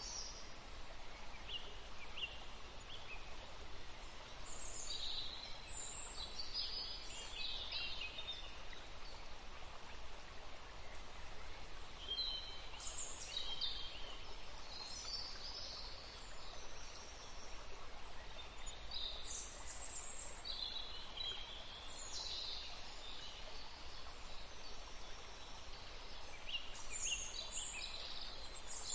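Small birds chirping in short, high clusters every few seconds, over steady background noise with a low hum.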